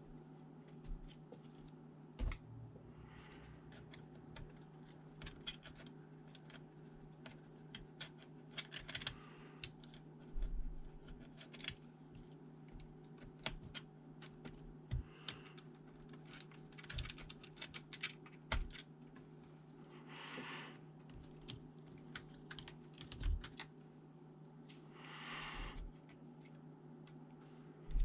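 Irregular light clicks and taps from the small plastic and metal parts of a laptop being handled and worked on during disassembly, with two short scraping rustles about 20 and 25 seconds in. A steady low hum runs underneath.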